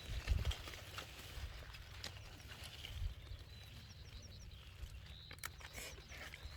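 Scattered soft clicks and rustles over a low steady rumble, with a quick run of faint high bird chirps about five and a half seconds in.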